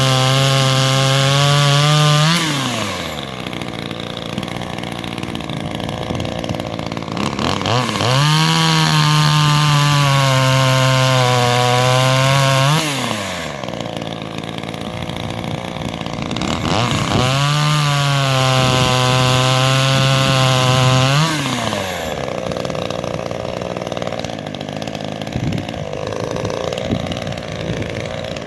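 Ozito 25cc two-stroke chainsaw (a Zenoah G2500 clone) run to full throttle three times, about four to five seconds each, dropping back to idle in between and near the end. In each burst the pitch sags and then climbs again, the way the engine pulls down under load while cutting wood.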